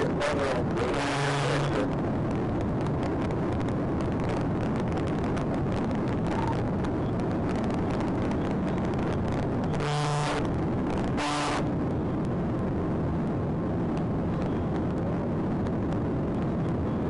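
Steady engine, road and wind noise of a police cruiser driving at speed in a pursuit, heard from inside the car. Two short louder bursts break in: one right at the start and one about ten seconds in.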